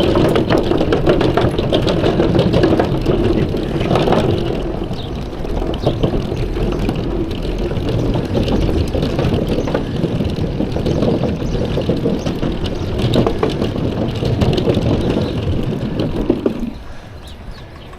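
Steady wind and rolling noise of a bicycle ride, heard through a chest-worn action camera's microphone; it drops off sharply about seventeen seconds in.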